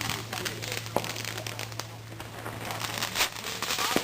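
Firecrackers going off in the street: sharp cracks about a second in and twice near the end, over a continuous crackle of burning fireworks.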